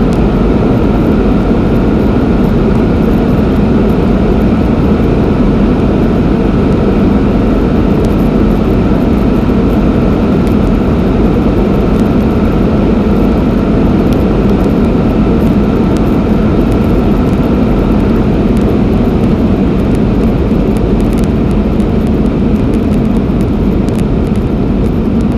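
Porsche Panamera Turbo S E-Hybrid Sport Turismo running flat out at very high speed: a loud, steady roar of wind, tyres and engine with no gear changes or rises in pitch.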